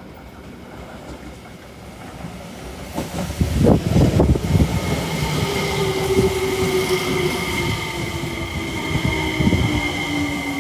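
JR Kyushu 303-series electric train pulling into the station. Wheels rumble and clatter loudly from about three seconds in. After that come a steady high whine and a motor tone that slowly falls in pitch as the train brakes.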